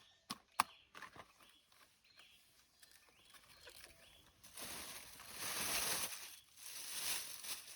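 Leafy vegetables being picked by hand: two sharp snaps of stems in the first second, then a few seconds of leaves and stalks rustling, in two louder swells.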